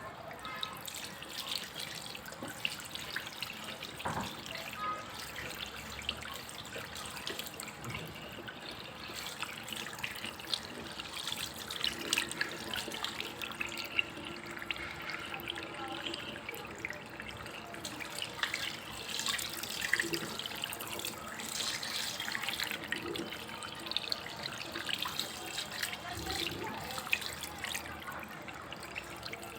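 Running water, a steady splashing flow dotted with many small drips and splashes.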